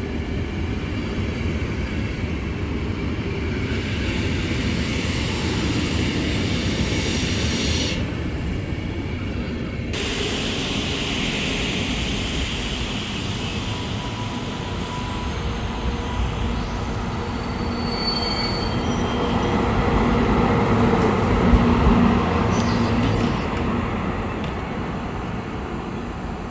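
A train running along the tracks: a continuous rumble of wheels on rail, with a few brief high wheel squeals midway, swelling to its loudest about three quarters of the way through, then easing.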